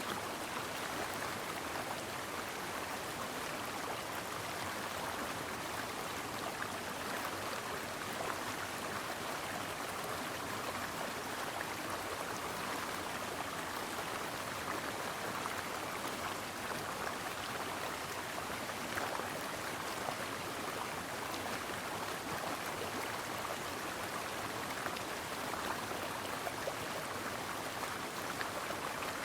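A stream's water flowing and splashing over rocks, a steady even rush with fine trickling crackle.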